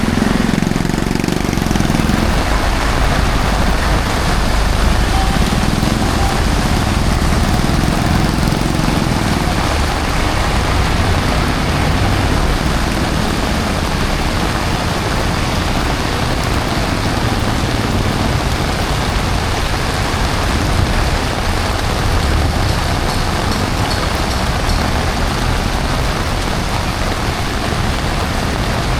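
Heavy rain falling steadily, mixed with road traffic, with a low vehicle rumble near the start and again a few seconds later.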